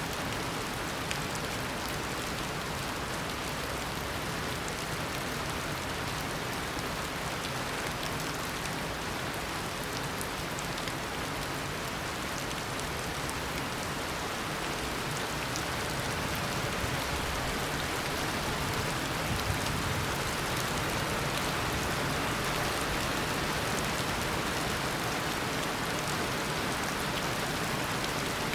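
Heavy steady rain pouring down, a dense hiss with fine drop patter, swelling slightly louder about halfway through.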